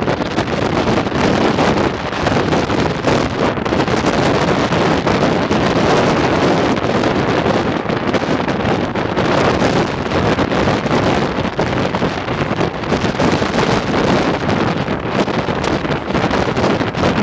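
Wind rushing over the microphone from a moving passenger train, with the steady running noise of the train underneath.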